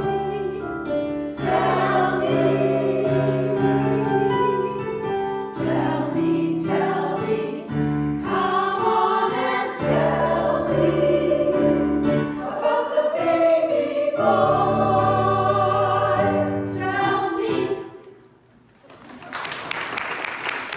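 Choir of sopranos and altos singing in harmony with piano accompaniment. The singing ends about 18 seconds in, and after a short pause the audience starts applauding.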